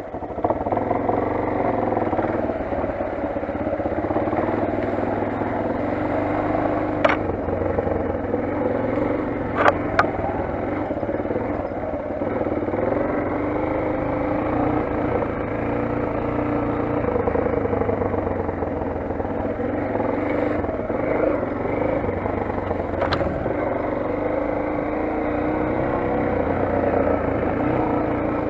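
Motoland XR 250's single-cylinder 250 cc engine running steadily under way, getting louder about half a second in. A few short sharp knocks break through: one around 7 seconds, two close together near 10 seconds and one around 23 seconds.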